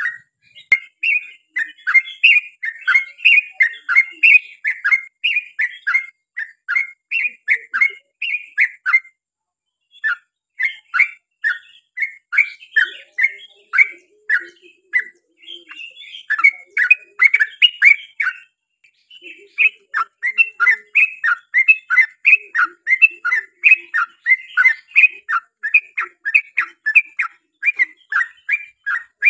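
Yellow-vented bulbul (trucukan) singing a long, unbroken run of short chattering notes, about two or three a second, with brief pauses about nine seconds in and again near eighteen seconds.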